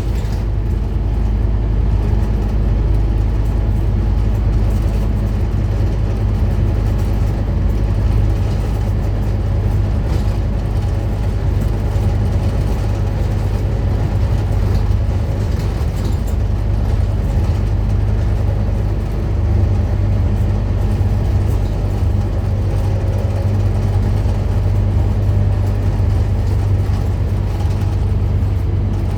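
Scania N230UD Omnicity double-decker bus's five-cylinder diesel engine running steadily while the bus is under way, a constant low drone with road noise over it.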